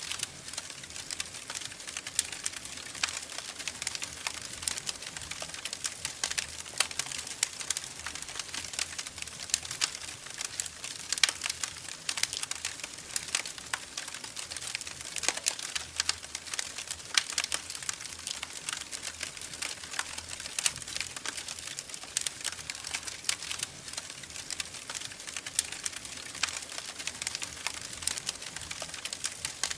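Wood fire in a fireplace crackling, with many irregular small pops and snaps over a soft hiss.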